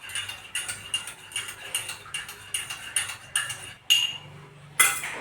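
Light clinks of metal dishware during a meal, about three a second, with a louder clatter near the end.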